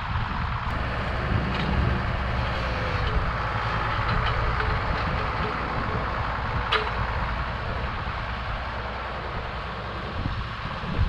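Farm tractor engine running steadily at a low rumble, with a single sharp click about seven seconds in.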